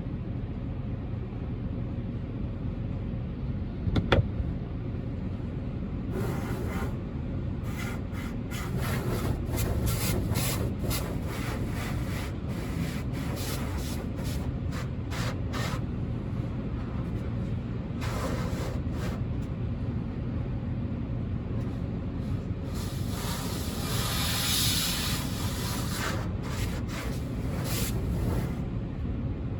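Steady low rumble of a car sitting with its engine running, heard from inside the cabin, with a single click about four seconds in. From about six seconds in, short bursts of hissing come and go, with a longer, louder stretch of hiss about three quarters of the way through.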